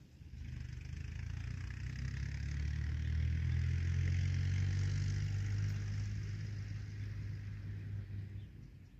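A road vehicle driving past: a low engine rumble and tyre noise that swell to a peak about four seconds in and then fade away.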